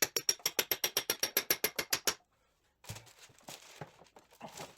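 Rapid, even ratchet clicking, about nine clicks a second with a bright metallic ring, stopping about two seconds in. Then irregular metal scrapes and knocks as gearbox parts are handled.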